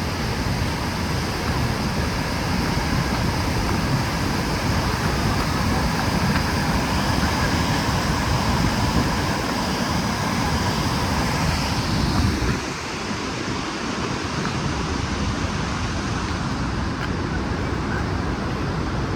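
Kjosfossen waterfall, a steady roar of falling water. It drops slightly in level about twelve seconds in.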